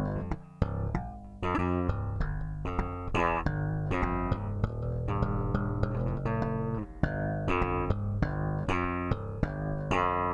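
Steinberger headless electric bass played unaccompanied: a steady run of plucked notes, each starting sharply and ringing briefly, with a longer held low note around the middle.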